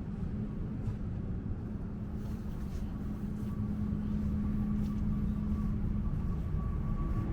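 Steady low engine rumble with a steady hum and a faint whine, slowly growing louder toward the end.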